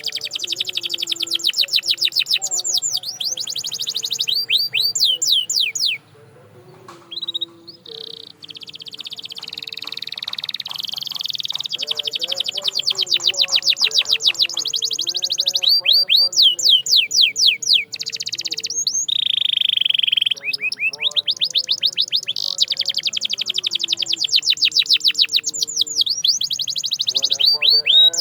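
Canary singing: fast trills of repeated sweeping notes, broken by a short pause about six seconds in, then long rolling trills and a brief held whistle.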